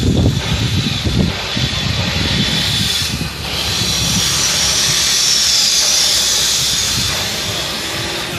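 Steady loud hissing noise that dips briefly about three seconds in.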